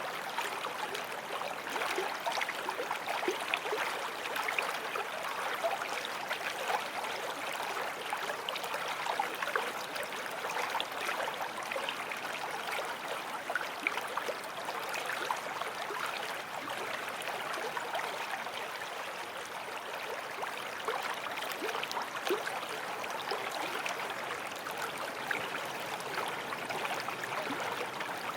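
Forest stream flowing over stones: a steady rush of water, with many small gurgles and splashes.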